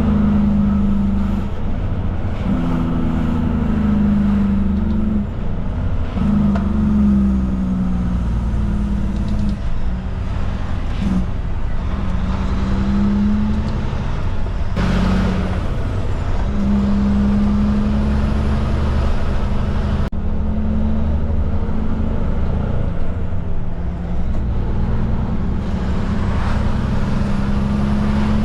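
Cummins diesel engine of a Kenworth K200 cabover prime mover under way, its note climbing and breaking off several times as it works through the gears.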